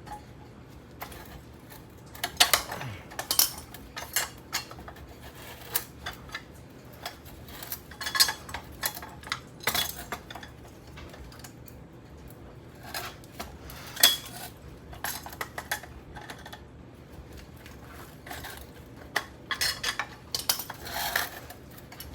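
Metal parts of a Craftmade ceiling fan motor clanking and clinking irregularly as it is forced apart, with pauses between strikes; one clank about 14 seconds in rings briefly.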